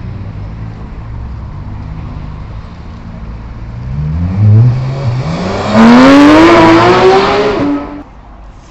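A car engine revving hard as the car accelerates, its pitch climbing twice and getting loud from about two-thirds of the way in, then cutting off suddenly. Before that, a steady low engine hum.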